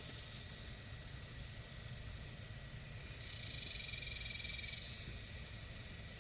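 A high-pitched insect trill lasting about a second and a half, starting about three seconds in, over a steady low rumble.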